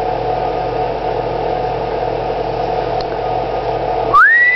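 Steady mechanical hum. Near the end a pet bird gives one loud whistle that rises, then holds.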